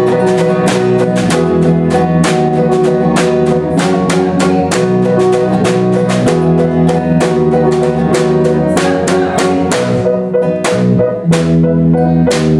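Live band playing an instrumental passage of a song: a drum kit keeps a steady beat of about four hits a second under guitar and low bass notes.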